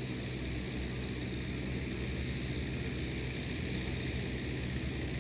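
A steady low engine hum over an even hiss.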